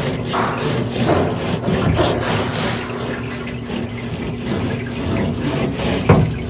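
Parts washer running solvent over oil pickup tubes as they are rinsed clean: a steady stream of liquid splashing, with a few light knocks of metal parts.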